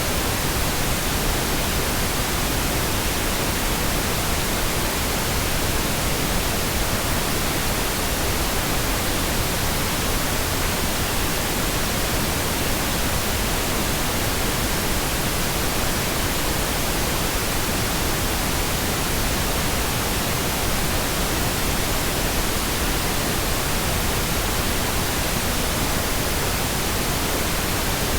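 Steady, unchanging pink noise: an even full-range hiss with no tones or breaks.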